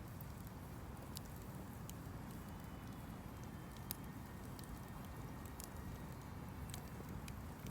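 Wood campfire crackling: irregular sharp pops and snaps over a low steady rumble, with one louder pop about four seconds in.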